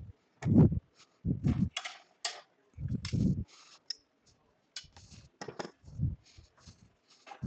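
Irregular knocks, clicks and clatter of tools and the workpiece being handled at a woodturning lathe, with no machine running.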